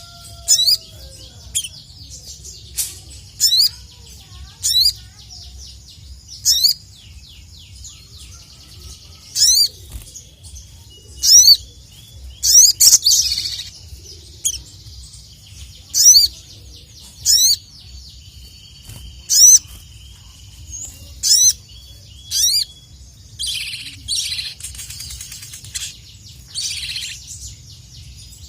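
Little spiderhunter (sogok ontong) calling over and over: short, sharp, high chirps, each a quick run of rising notes, coming every second or two, with a longer buzzy trill near the end.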